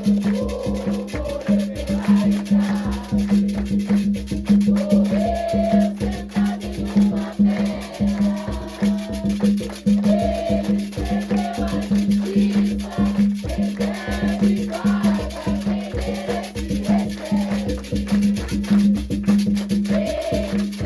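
Afro-Brazilian religious festival music for Xangô: fast, steady hand percussion with rattles, and voices singing a melody over it.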